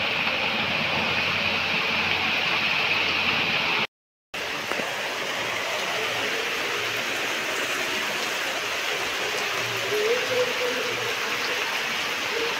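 Steady rain falling on trees, thatch and wet ground, an even hiss that cuts out abruptly for a moment about four seconds in.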